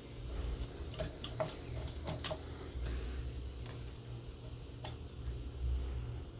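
Scattered light clicks and taps of metal engine parts being handled and fitted, a few in the first two seconds and one more about five seconds in, over a low rumble of handling noise.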